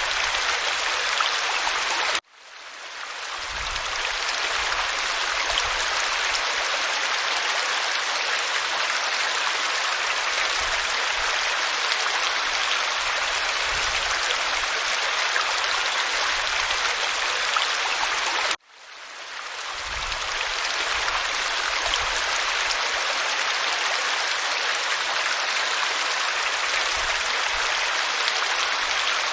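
Waterfall over rocks: a steady rush of falling water. It cuts out abruptly twice, about two seconds in and again about eighteen seconds in, each time swelling back up over a second or two.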